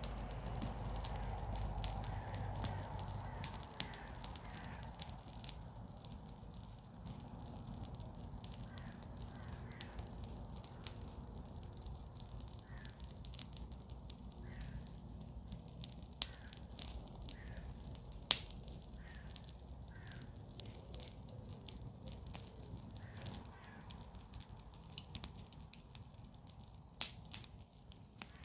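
Garden-waste bonfire burning, with irregular sharp crackles and pops from the burning wood and leaves. A crow caws repeatedly in the background through the middle of the stretch.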